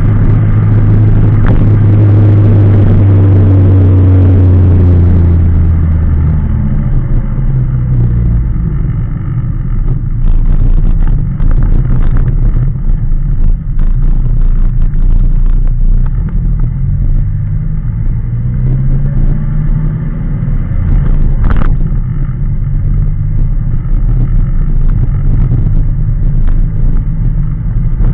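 Car engine running close to the microphone in an open-top car: a strong steady hum for the first few seconds, then dropping to a lower idle with a few brief rises and falls in revs. One sharp knock about three quarters of the way through.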